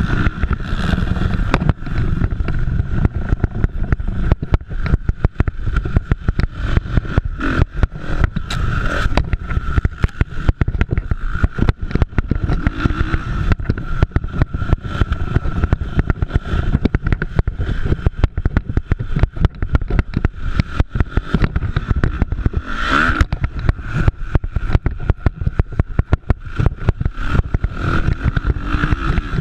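Motocross motorcycles racing around the track, their engines running and revving, with one bike coming louder about two-thirds of the way through. A constant low rumble and crackle of wind buffeting on the microphone runs under the engines.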